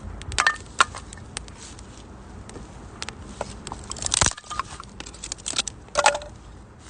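Firewood burning in a small metal wood stove, crackling with irregular sharp pops and snaps over a low hiss.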